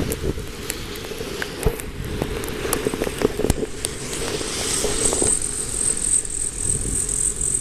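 Strong wind in a blizzard buffeting the microphone, with scattered clicks and rattles. About five seconds in, a steady high-pitched whine starts and holds.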